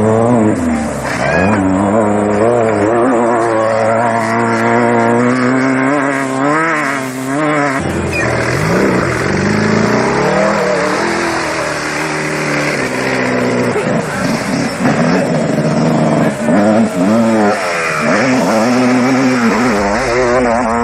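Off-road race vehicle engine running hard, revving up and down over and over so that its pitch keeps rising and falling.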